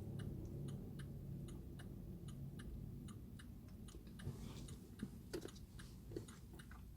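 Faint, even ticking of a clock, about three ticks a second, with a couple of soft knocks near the end.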